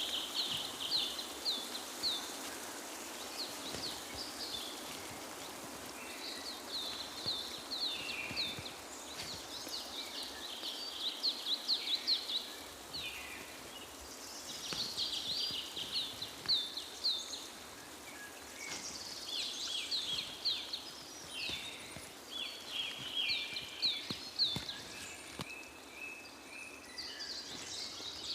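Songbirds singing: repeated phrases of fast, high-pitched chirps, each a few seconds long with short pauses between, over a steady background hiss.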